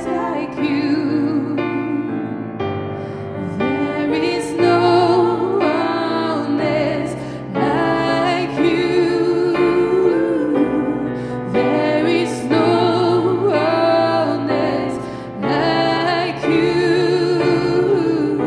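Women singing a slow gospel worship song over keyboard accompaniment, with long held notes sung with vibrato.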